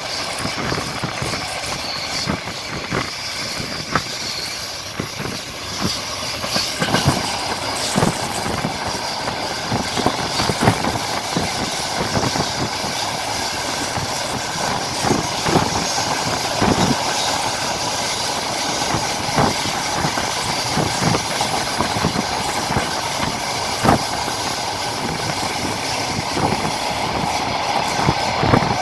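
Train wheels knocking over rail joints as the train runs at speed, heard from aboard: a steady running rumble broken by irregular sharp clicks, a little louder after the first few seconds.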